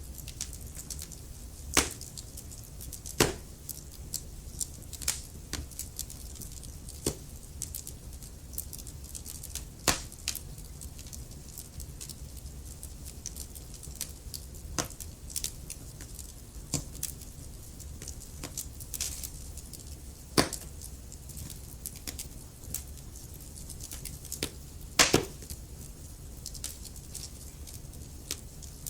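Wood fire burning in a fireplace, crackling with irregular snaps and pops over a low steady rumble; the loudest pops come about 2, 3, 10, 20 and 25 seconds in.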